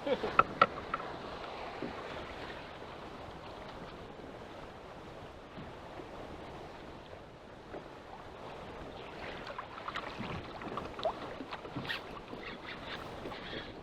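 Steady noise of wind and choppy water. A few sharp knocks come about half a second in, and scattered clicks and knocks follow in the last few seconds.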